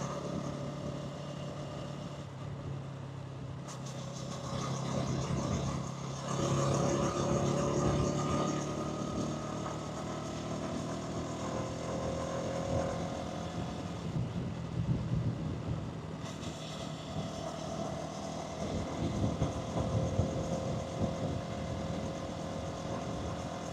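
Hansom Bike Venett 125cc scooter engine running steadily, then speeding up about six seconds in with its pitch rising, and riding on with engine and road noise.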